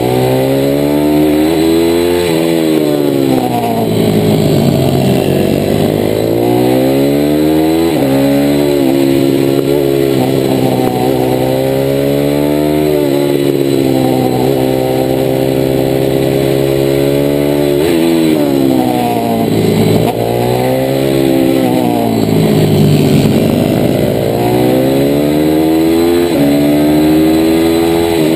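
The 160cc single-cylinder engine of a DHZ Outlaw mini motard running hard under racing load, heard up close on the bike. The pitch climbs through the gears, drops suddenly at each upshift, and sweeps down several times as the bike slows into corners.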